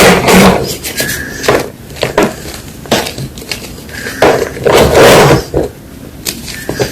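Gym chalk crunching and crumbling in a series of loud, crisp bursts, about half a dozen in all, the loudest right at the start and around five seconds in.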